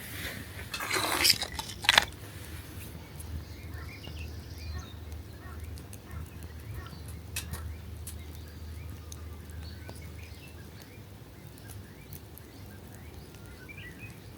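Faint birds chirping, with scattered small clicks and a low steady hum; about a second in comes a brief loud rustling scrape that ends in a sharp knock.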